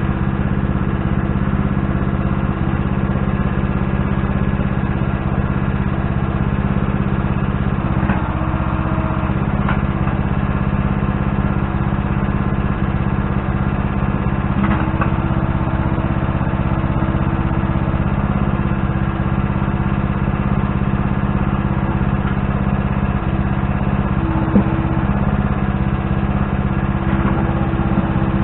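A machine's engine running steadily at an even speed, with a few faint knocks.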